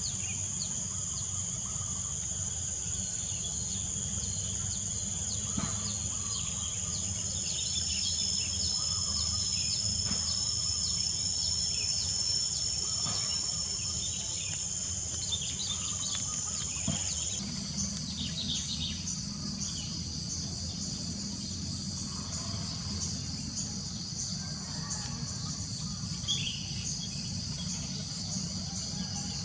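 Rural nature ambience: a steady, high-pitched insect chorus with short bird chirps scattered through it, over a low rumbling background. About two-thirds of the way in, the insect chorus changes abruptly to a different pattern.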